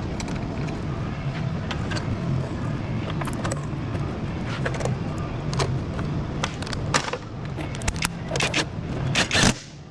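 Scattered clicks and light metallic clinks of parts and tools being handled, over a steady low hum of shop background.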